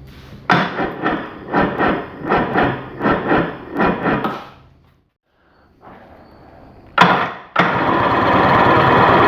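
Electric starter cranking a 440 jet ski's two-stroke twin-cylinder engine, which does not fire. At first the cranking pulses two to three times a second. After a short pause there is a click, and the engine then spins with a steady, even sound, turning faster with its spark plugs out.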